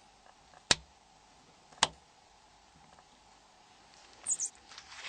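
Two sharp plastic clicks about a second apart: the two latches of a Nokia 6085's antenna cap snapping open. Near the end come two brief high-pitched scrapes.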